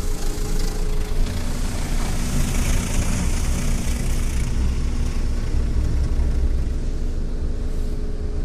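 High-pressure water jets of a touchless automatic car wash spraying against the car, heard from inside the cabin over a steady low rumble. The hiss of the spray swells a couple of seconds in and falls away about halfway through.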